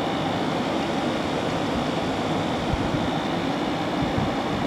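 2009 General Electric 12,000 BTU air conditioner running, its fan blowing a steady rush of air with a faint high tone over it. The compressor is on and the unit is cooling strongly, with a good refrigerant charge.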